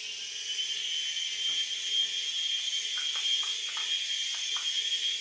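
Air Hogs Moto Frenzy RC motorbike's small electric motor and flywheel spinning at high speed: a high whine that rises in the first second and then holds steady. A few light clicks come about three to four and a half seconds in.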